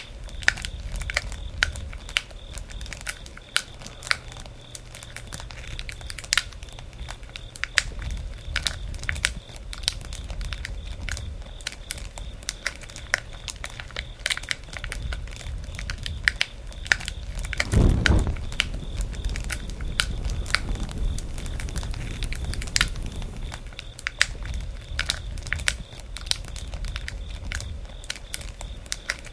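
Wood campfire burning, crackling and popping with many irregular sharp snaps over a low rumble of flame, with a brief louder rush about two-thirds of the way through.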